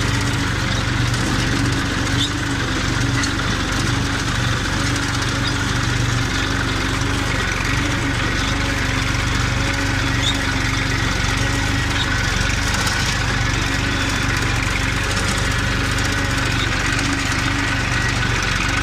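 Massey Ferguson 241 tractor's three-cylinder diesel engine running steadily while pulling a plough, with an even, unchanging note.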